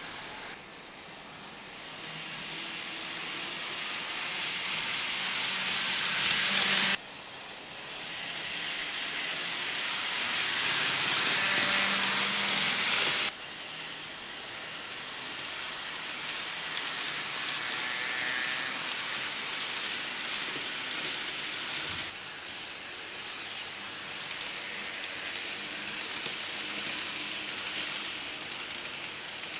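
N gauge model of a Tobu 100 series Spacia running on layout track: a steady hiss of small wheels and motor that swells louder twice and cuts off suddenly each time, about a quarter and about halfway through, then runs on at a lower, even level.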